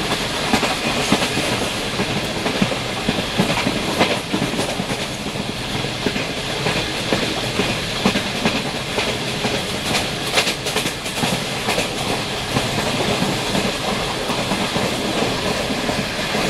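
Passenger train running along the line, heard from on board: a steady rumble and rattle of wheels on rail, with occasional sharp clicks from the track.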